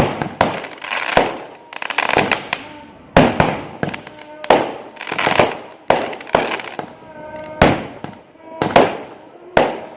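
Fireworks going off one after another: about ten sharp bangs, roughly one a second, each followed by a short fading tail.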